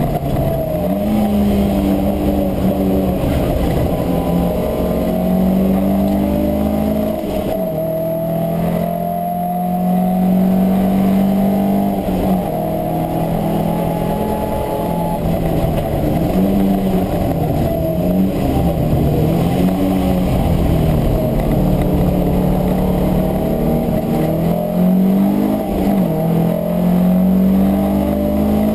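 Classic saloon race car engine under racing load, heard from inside the cabin. Its note climbs slowly through the revs and drops back at each lift or gear change, dipping several times in quick succession in the middle.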